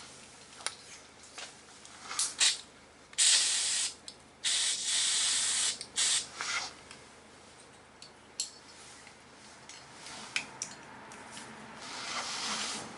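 Aerosol spray can of high-zinc primer hissing in bursts: a few brief spurts, then two longer sprays of about a second each, more short spurts, scattered clicks, and another longer spray near the end. The thick high-zinc paint keeps blocking the nozzle, which the restorer suspects is the cause.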